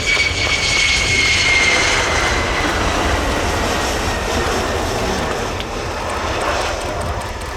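Boeing F-15QA twin-jet fighter's engines running, a loud roar with a high whine that falls slowly in pitch over the first few seconds.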